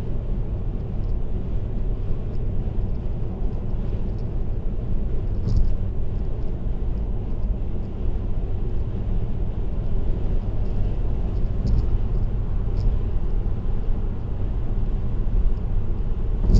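Steady low road and tyre rumble from a car cruising on an expressway, with a few faint brief ticks.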